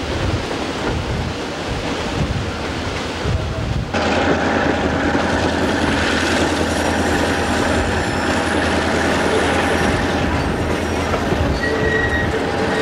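A rushing noise that switches abruptly about four seconds in to the Skunk Train running on a curve, heard from an open passenger car: wheels rumbling on the rails with steady high-pitched squeal from the wheels on the curve.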